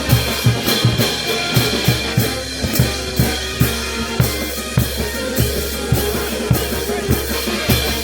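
Peruvian festival brass band playing, with bass drum and snare beating out a steady quick rhythm of about three strokes a second under sustained low brass notes.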